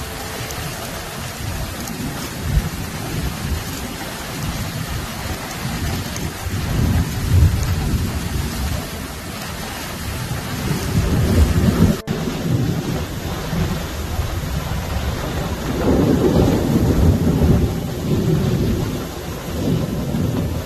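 Heavy rain falling hard and steadily, with thunder rumbling low and swelling several times, heaviest in the second half.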